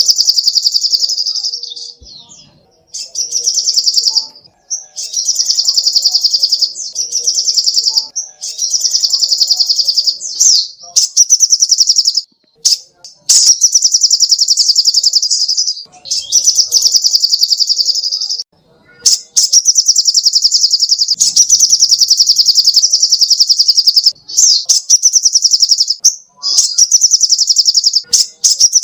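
Little spiderhunter (sogok ontong) singing: long runs of rapid, high, evenly repeated notes, in phrases of one to three seconds broken by short pauses.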